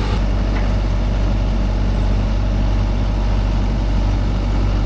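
Tracked excavator's diesel engine running steadily at a low, even pitch while the machine is driven.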